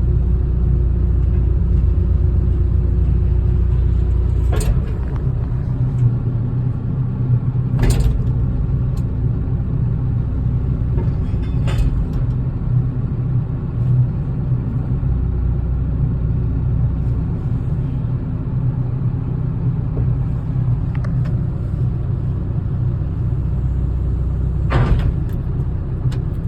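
Heavy construction-equipment engine running steadily with a low rumble, with a few sharp metallic knocks now and then.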